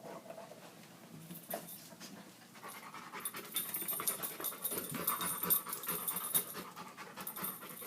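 A dog panting, worn out from chasing a metal padlock; the panting grows louder about three seconds in.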